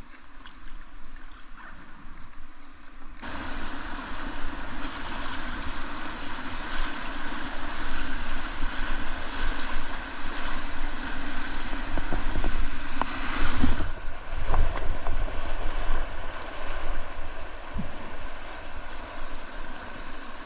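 Rushing whitewater of a river, heard from a kayak, growing much louder about three seconds in and easing slightly later on, with wind rumbling on the microphone.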